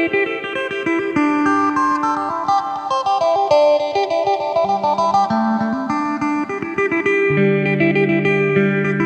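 Electric phin (Isan/Lao lute) with a jackfruit-wood body, four strings and 18 frets, played through an amplifier in quick runs of picked notes. About halfway in, a held low drone note enters beneath the melody.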